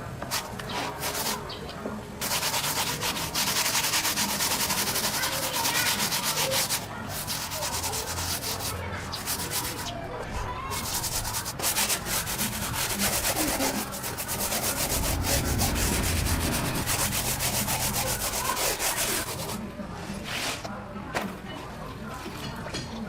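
Sanding on the metal of a pickup truck bed, a continuous rasping in long passes broken by short pauses and easing off near the end.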